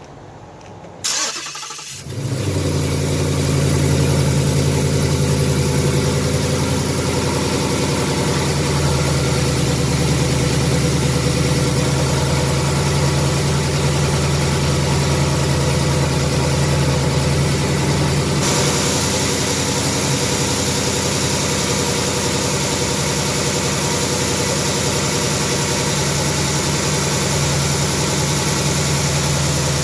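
2018 Mustang GT's 5.0 L Coyote V8 cranked by the starter about a second in, catching and settling into a steady cold-start idle. It runs on fresh 5W30 oil with no Ceratec added, as a check on whether the engine's 'BBQ tick' tapping comes back.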